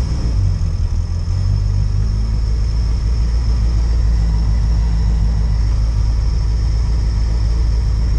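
Lada 2107 Group A rally car's four-cylinder engine idling steadily, a low rumble heard from inside the cabin.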